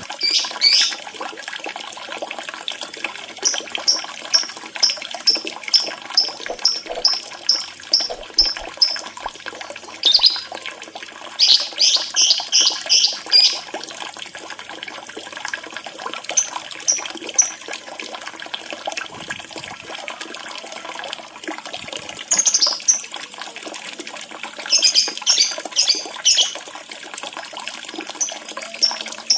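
Steadily trickling running water with short, high lovebird chirps over it: a run of evenly spaced chirps, about two a second, then several quick bursts of rapid chirping.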